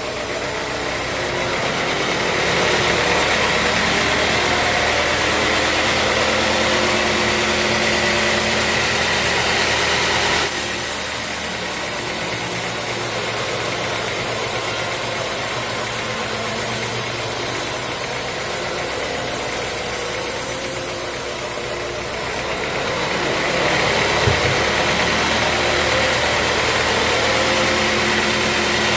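Band sawmill machinery running: a steady engine drone with a constant hiss, its sound shifting abruptly a few times, and a single knock about three-quarters of the way through.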